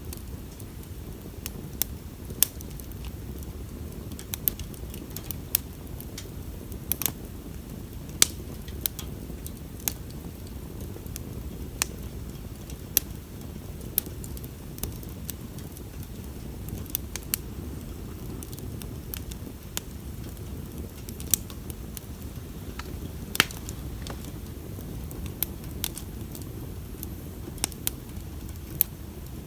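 Wood bonfire burning: irregular sharp crackles and pops, roughly one a second, over a steady low rumble of the fire.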